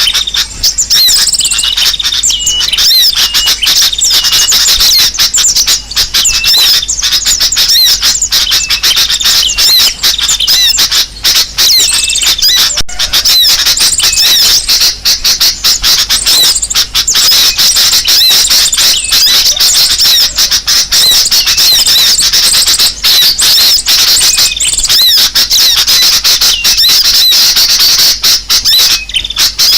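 Dense chorus of many small birds chirping and squawking together at once, with rapid short notes overlapping without a break. This is a bird-lure (pikat) recording of noisy, agitated birds, played to draw wild birds in.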